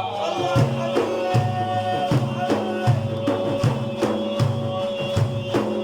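Instrumental break in Iraqi religious praise music: drums beating a steady rhythm of about two to three strokes a second under a long held note, with no singing.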